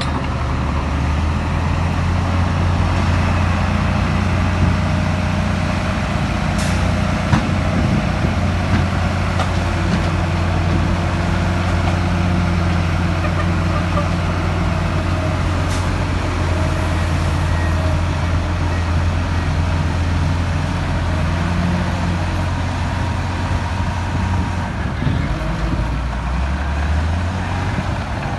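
Heavy diesel earthmoving machinery running steadily with a deep, low engine drone, with two brief sharp ticks about a third and halfway through.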